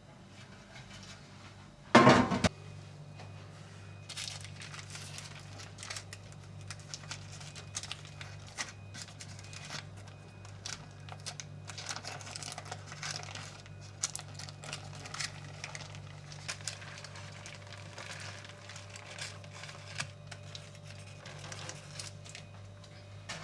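Crinkling and rustling with many small clicks and knocks, over a steady low hum that starts with a loud thump about two seconds in.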